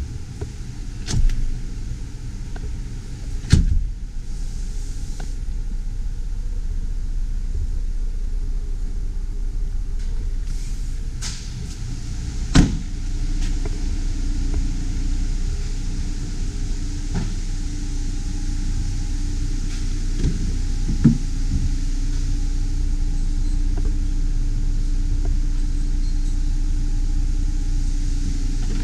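A motor vehicle's steady running rumble, with four sharp knocks or clicks scattered through it and a steady hum joining about halfway through.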